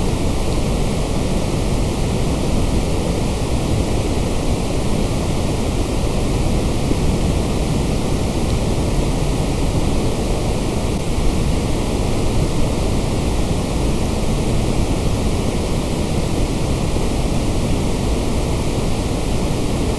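Steady generated white noise: a constant, unchanging hiss across the whole range, heaviest in the low end, with no events or changes.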